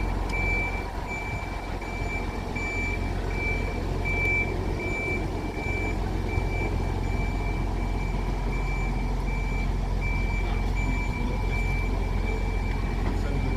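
A vehicle's reversing warning alarm beeping steadily, about two and a half high beeps a second, over a low steady rumble, as a tram is shunted.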